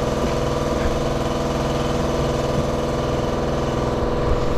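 Air compressor motor running steadily, supplying air for spraying Raptor bed liner.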